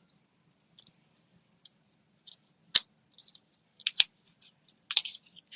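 Paper pieces being handled and placed on a craft table: light rustles and a few sharp clicks, the three loudest about a second apart in the second half.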